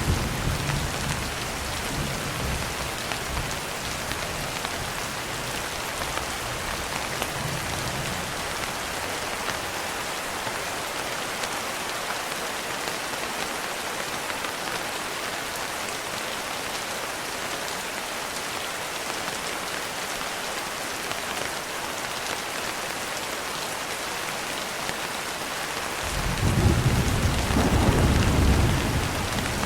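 Steady rain falling, an even hiss throughout. A low roll of thunder dies away over the first few seconds, and another rumble rolls in near the end.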